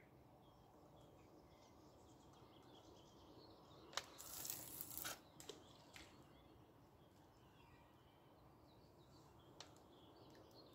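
Faint birds chirping over a quiet outdoor background. About four seconds in, a sharp click is followed by about a second of rustling, with a few smaller clicks after it.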